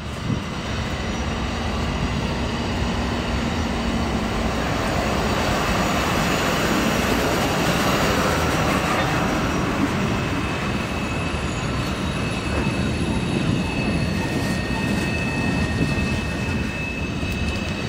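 Freight cars rolling past on curved track, a steady rumble of wheels on rail. From about ten seconds in a thin, steady high-pitched wheel squeal rides over it.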